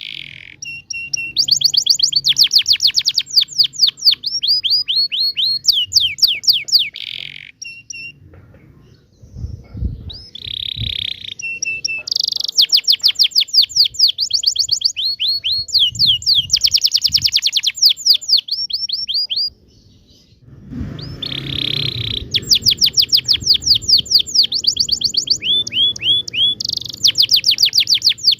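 Domestic canary singing a long rolling song: fast trills of repeated high notes, each sweeping downward, run together with only two short breaks.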